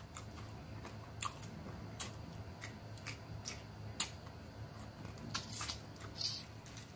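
Close-up mouth sounds of people eating chicken wings: chewing and lip-smacking, heard as a scatter of short, sharp clicks and smacks at irregular intervals.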